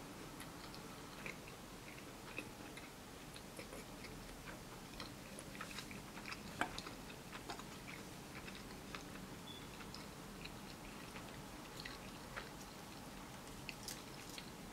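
Quiet chewing of a sushi roll with soft, scattered mouth clicks, and one sharper click about six and a half seconds in.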